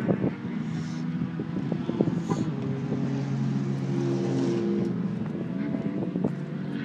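Car engines idling, a steady low hum whose pitch shifts a little a few times, with a few light knocks.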